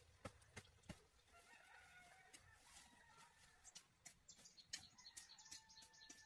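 Faint chickens: a drawn-out wavering crow-like call starting about a second in, then quick high chirps and peeps through the second half, with a few light clicks at the start.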